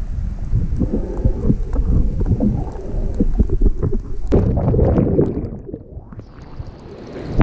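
Strong wind buffeting the microphone over rough, stormy surf, with a rumbling roar and splashy crackles that ease off briefly about six seconds in.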